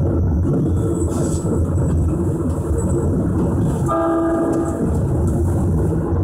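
Keisei 3050-series electric train running, a steady rumble of wheels and motors, with one short train-horn blast about four seconds in.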